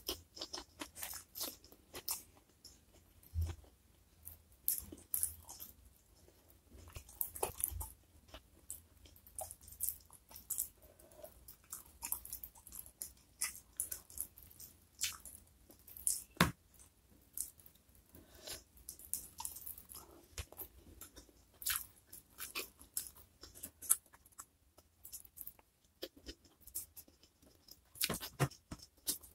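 Close-up chewing and crunching of food during a hand-eaten mukbang, with many short, irregular crisp crackles and clicks from the mouth.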